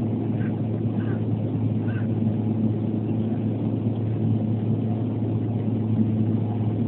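Steady low drone of the Antonov An-140's twin turboprop engines and propellers during the landing approach: an unbroken hum with a constant low pitch and no change in level.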